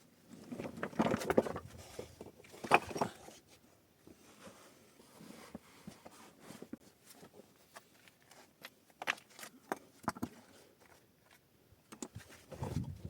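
Irregular knocks, scrapes and crunches of hands-on work, loudest in two clusters in the first three seconds, then scattered single clicks.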